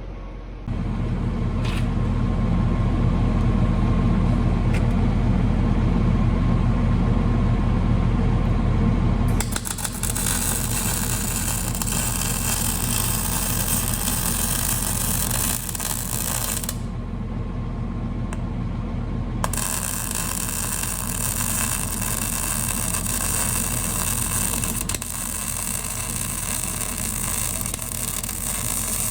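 An engine runs steadily with a low hum. About a third of the way in, the loud, even crackling hiss of arc welding joins it, pausing briefly around the middle before it resumes. The weld is repairing a baler's broken kicker bar.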